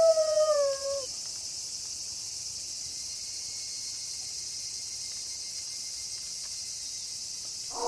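A wolf howl dips in pitch and trails off about a second in. After it comes a steady chorus of crickets at night. Near the end a new, fuller howl starts.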